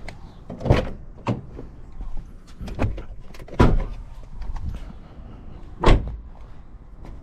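A handful of sharp clunks and knocks, about five, the loudest near the start, in the middle and about six seconds in.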